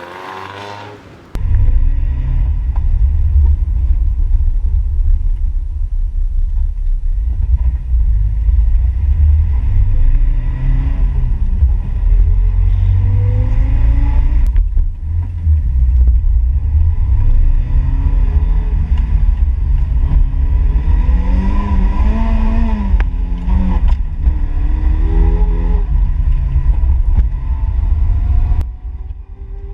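Toyota Corolla AE86 engine and drivetrain heard from a moving car, with a heavy deep rumble and the engine note rising several times as it accelerates through the revs and dropping between pulls. It starts abruptly about a second in and cuts off suddenly near the end.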